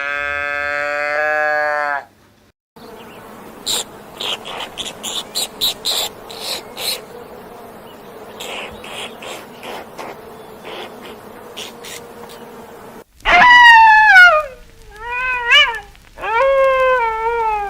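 A sequence of different animal sounds: a drawn-out call with a rich, wavering pitch that stops about two seconds in, then about ten seconds of a steady low hum broken by a run of sharp clicks, then several loud calls that fall in pitch near the end.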